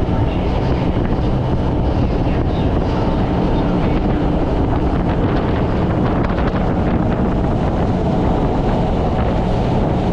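Steady drone of a passenger ferry's engines, with wind and water noise over it.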